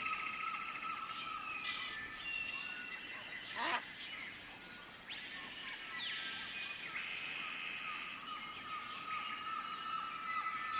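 Birds chirping, with scattered short calls and a few sliding notes, over a steady high-pitched drone.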